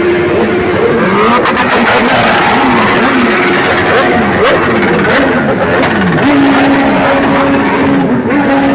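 A procession of many motorcycles riding past, their engines revving in overlapping, repeated falls of pitch. One engine holds a steady note in the last few seconds.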